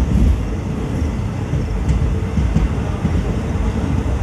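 Passenger train running along the track, a steady, dense rumble of wheels on rails and the moving coach.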